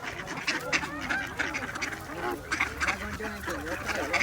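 A flock of ducks quacking, many short calls overlapping one another, as they crowd in to be fed bread.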